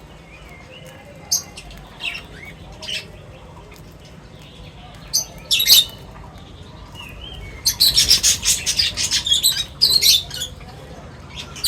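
Birds chirping in short, high calls: a few scattered chirps at first, then a dense run of rapid chirping for two or three seconds in the second half.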